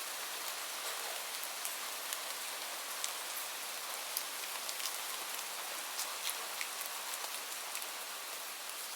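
Steady rain: an even hiss with many individual drops ticking sharply and irregularly on a surface.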